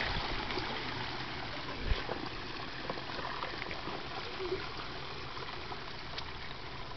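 Steady rush of running water, with one dull thump about two seconds in.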